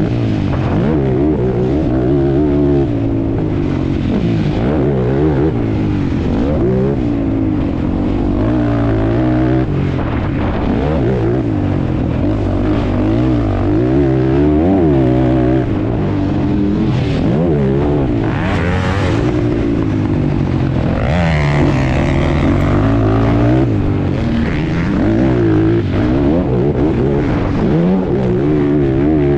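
ATV engine running hard under riding, its pitch rising and falling every second or two as the throttle is opened and closed.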